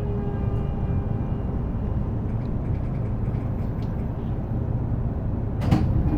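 Interior running sound of an E233-series electric train braking to a stop: the low rumble of wheels on rail, with the motor inverter whine falling in pitch and fading out early on. A short burst of air hiss comes near the end as it comes to rest.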